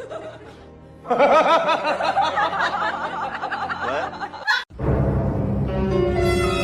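Several voices laughing or calling over one another for about three seconds, which cut off suddenly. Music with long held notes starts near the end.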